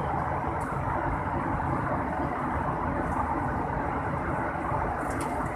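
Steady airliner cabin noise in cruise: an even rush of airflow and jet engine drone, with a faint steady hum underneath.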